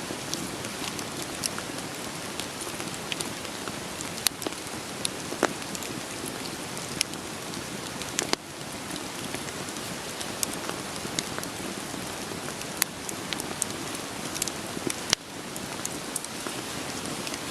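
Steady rain hiss with scattered, irregular sharp crackles and pops of burning firewood.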